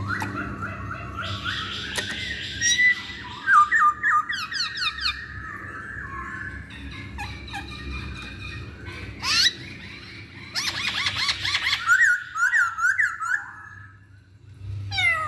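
Poksay Hongkong laughingthrush singing a loud, varied song: quick runs of sliding whistled notes and trills, broken by stretches of harsh, raspy notes.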